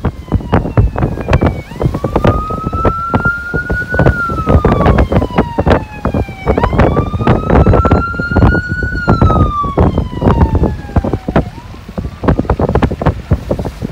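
Emergency vehicle siren on a wail setting, rising slowly and then falling in cycles about five seconds long, starting a couple of seconds in. Heavy blizzard wind buffets the microphone throughout.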